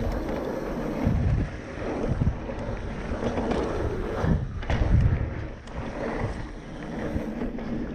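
Wind rushing over the microphone as a mountain bike rolls along a dirt trail, swelling in surges as the bike is pumped through rollers.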